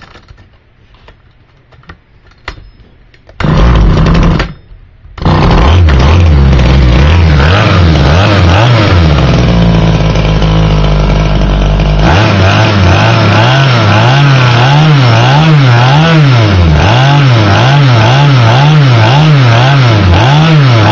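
Small 25.4 cc GMC two-stroke engine cold-started on choke. It fires briefly about three seconds in and dies, then catches about two seconds later and keeps running loudly. From about halfway on, its revs rise and fall regularly, about once a second.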